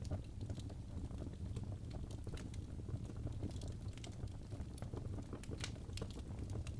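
Wood fire burning in a fireplace, crackling: irregular small pops and snaps over a low steady rumble.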